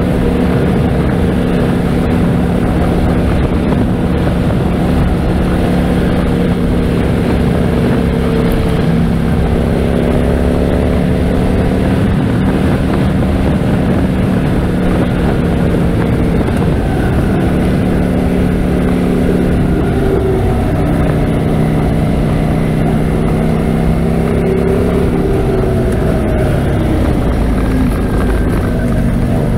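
Harley-Davidson Road King's V-twin engine running at road speed, its pitch stepping up and down several times as the throttle changes, over a steady rush of wind.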